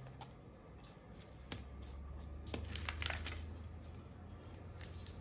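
Hands working a wet epoxy glue-up, fitting a steel blade into a wooden handle: scattered light clicks, taps and rustles, with a few sharper ticks about a second and a half, two and a half and three seconds in. A faint low hum sits underneath, getting stronger about a second and a half in.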